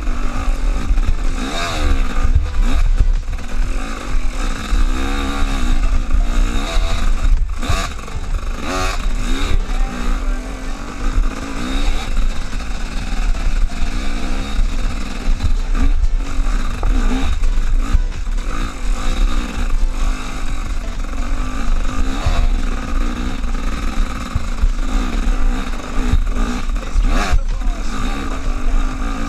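Motorcycle engine running hard, its pitch swooping up and down again and again as the throttle is worked, over a heavy low rumble, with a few sharp knocks.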